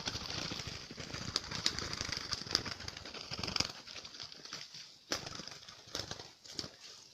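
Trapped spotted doves flapping and scuffling, an irregular run of wingbeats and rustling ticks that eases off about four seconds in and flares up again briefly, over a steady high hiss.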